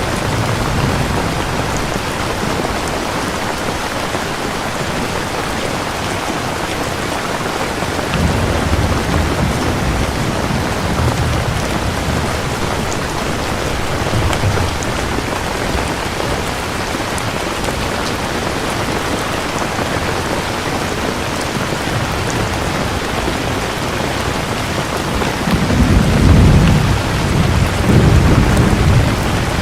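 Steady heavy rain falling, with thunder rumbling low in the distance; a louder roll of thunder comes near the end.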